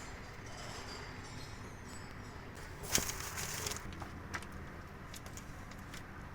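Workshop work sounds: a single sharp knock about three seconds in, followed by a brief scraping rustle and a small click, over a low steady hum.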